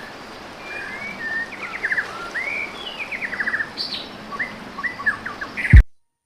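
Several birds chirping and singing in quick trills and short calls over a steady outdoor hiss. Near the end there is one loud, low thump, and the sound cuts off suddenly.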